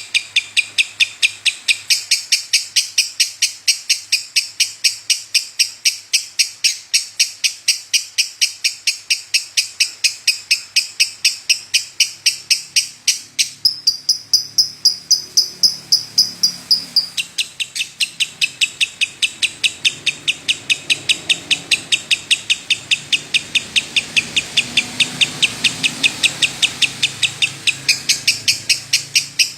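Lovebird singing a long, unbroken chatter: a rapid string of sharp high chirps, about four or five a second. Near the middle it changes for a few seconds to a smoother held note, then the chirping resumes.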